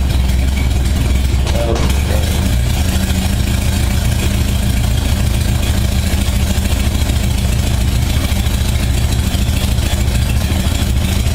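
1978 Honda Goldwing GL1000's flat-four engine idling steadily and evenly on choke, just after a cold start, its carburettors freshly synchronised.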